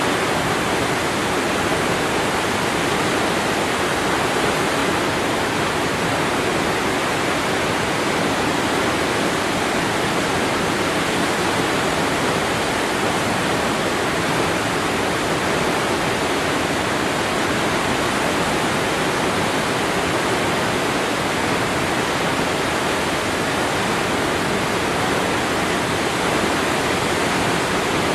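Waterfall: water falling and splashing, a loud, steady, even rush with no change in level.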